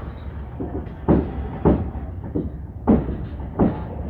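Train wheels knocking over rail joints, heard inside the coach: two pairs of knocks, each pair a fraction of a second apart, over the steady low rumble of the moving train.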